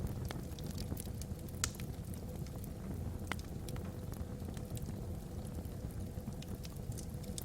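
Wood fire burning in a fireplace: a steady low rumble of flames with scattered sharp crackles and pops from the logs, a couple of louder pops about one and a half and three seconds in.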